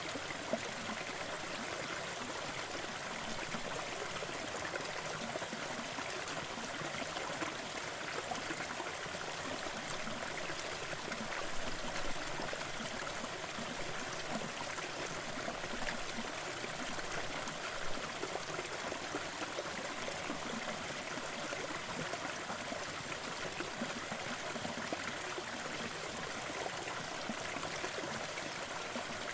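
Waterfall: water splashing and running steadily in an even rush, with a few brief louder splashes.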